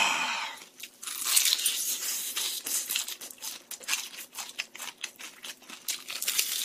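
Crispy rice-battered fried chicken crunching and crackling in dense, irregular clicks as it is pulled apart by hand and bitten and chewed close to the microphone.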